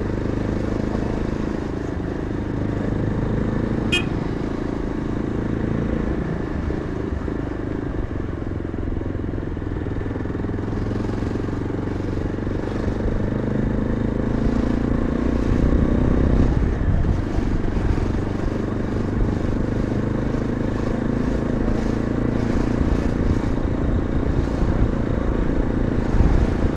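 Yezdi Adventure's single-cylinder engine running under way in slow traffic, heard from the rider's seat. Its pitch rises through the middle, then drops as the revs fall. A sharp click about four seconds in.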